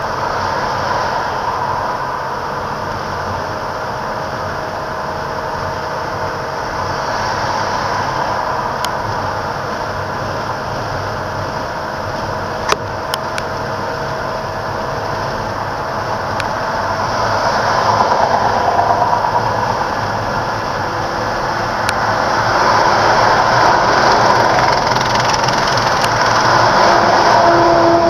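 Steady road noise of a heavy semi truck hauling an oversized load rolling past, a continuous rush with a faint steady tone in it. A single sharp click comes about halfway, and the noise grows louder over the last third.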